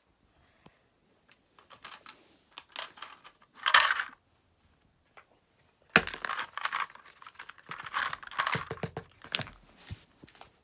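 Fidget toys being handled: irregular clicking, tapping and crinkling, with a louder rustle about four seconds in and a busy run of clicks from about six seconds.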